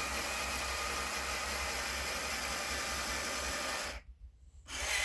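Steady background hiss with a low hum underneath, cutting out abruptly for under a second about four seconds in.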